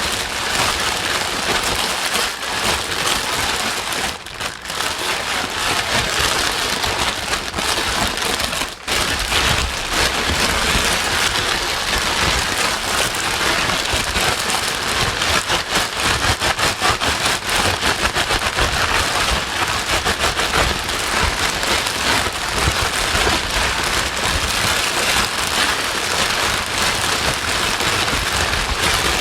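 Steady heavy rain used as white noise: a dense, even patter of drops on a surface, dipping briefly about four and nine seconds in.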